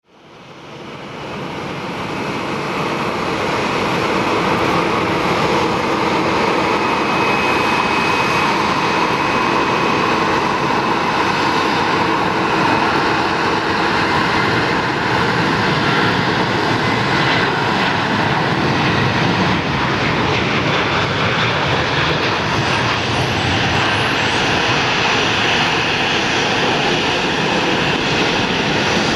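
Airbus A310-304 MRTT's twin General Electric CF6-80C2 turbofan engines at takeoff thrust: a loud, steady rush of jet noise that swells up over the first few seconds and then holds even.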